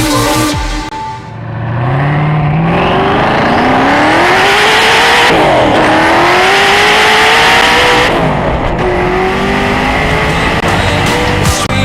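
Sports car engine accelerating hard: its pitch climbs, drops at a gear change about five seconds in, climbs again until about eight seconds in, then settles lower.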